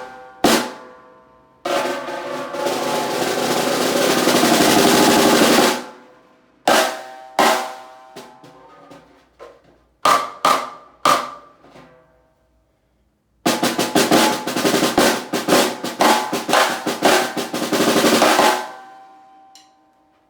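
Bird's eye maple stave snare drum, tuned fairly high, played with sticks: a single stroke, then a roll that swells louder for about four seconds, a few scattered single strokes, and a longer passage of fast strokes and rolls near the end. The snare wires buzz under every stroke, and the head rings on with a clear pitch after the hits.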